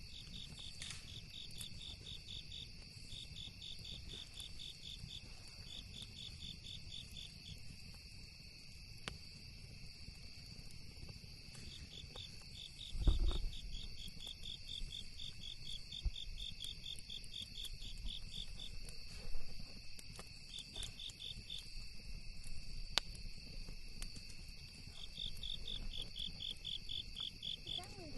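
Night insects: a steady high drone with a pulsed trill coming in repeated bursts of a second or two. A campfire pops sharply now and then, and there is one low thump about halfway through.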